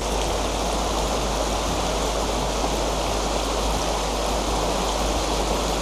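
Mountain stream rushing over rocks: a steady, even wash of running water with a low rumble beneath it.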